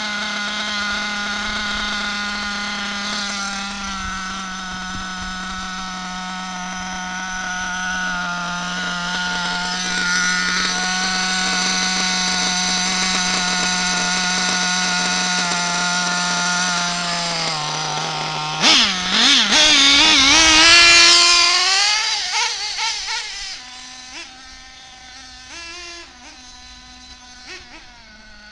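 Nitro RC buggy engine running at a steady speed for a long stretch while its carburettor is being tuned, then revving up hard with a rising, wavering whine about two-thirds through. After that it drops away much quieter, its pitch stepping up and down as the buggy drives off.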